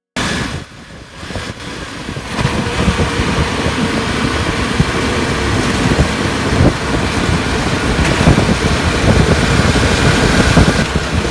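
A motor engine running loudly and steadily, cutting in abruptly and building up over the first couple of seconds.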